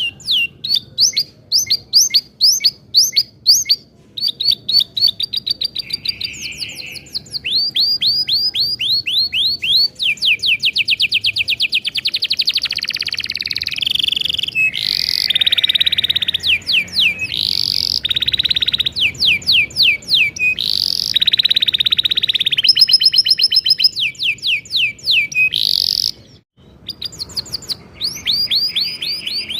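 Domestic canary singing a long song: series of rapid repeated chirps that shift into sustained fast rolls. The song breaks off briefly about 26 seconds in, then resumes.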